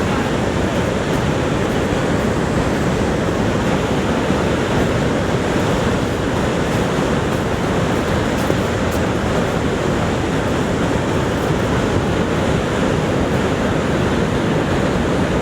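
Niagara Falls' water plunging down: a steady, dense rush of falling water that neither rises nor fades.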